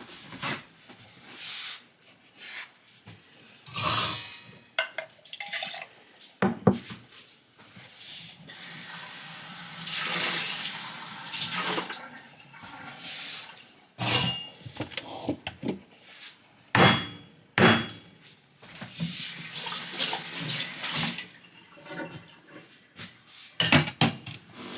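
Kitchen clatter of cups, dishes and utensils being handled, knocked and set down, with a few seconds of water running or hissing partway through and again later.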